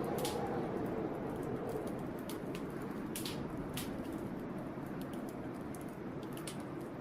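Wood fire crackling in a fireplace, with irregular sharp pops several times a second, over the steady rush and howl of blizzard wind.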